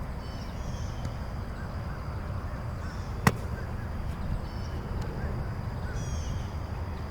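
Outdoor ambience: a steady low rumble, as of wind on the microphone, with birds chirping now and then. A single sharp smack sounds about three seconds in.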